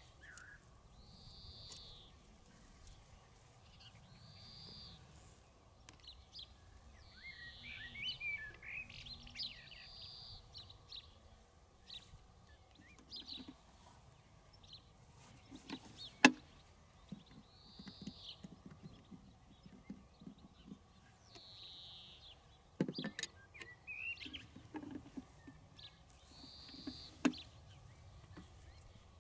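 A bird calling outdoors: short high calls, each dipping in pitch, every few seconds, with chirps in between. A few sharp clicks and knocks come from handling the lure machine as its line is cut off the drag wheel, the sharpest about halfway through.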